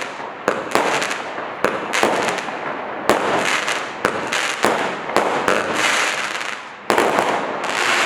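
Black Cat Kaboom roman candle cake firing its finale: a rapid run of sharp bangs, several a second, with crackling hiss between them from crackle mines and titanium bursts. After a brief lull near the end, a loud bang starts another volley.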